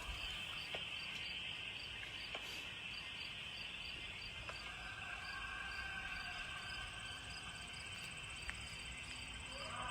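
Insect chorus in the woods: a steady high buzz with short chirps repeating at an even pace, a few a second. Fainter drawn-out tones join about halfway through.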